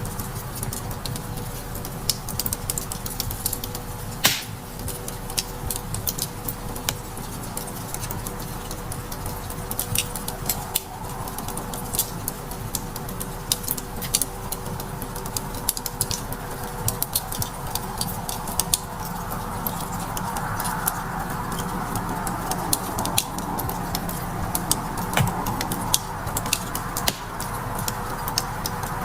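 Wood fire crackling, with frequent irregular sharp pops, over soft background music.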